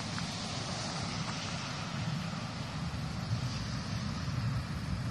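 Low, steady rumble of a Harz narrow-gauge train approaching from a distance, under an even outdoor hiss.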